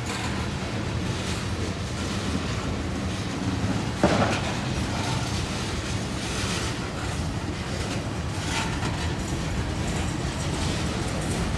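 Freight train tank cars rolling past: steel wheels rumbling steadily on the rails and clicking over rail joints. There is one sharp bang about four seconds in.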